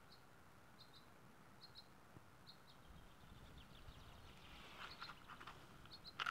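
Near silence with faint, short, high bird chirps about once a second. Faint rustling and clicks of hands handling a small box come in over the second half.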